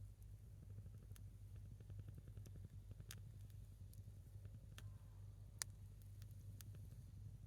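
Faint crackling of a single burning firewood log: scattered sharp pops and ticks, the loudest about five and a half seconds in, over a low steady hum.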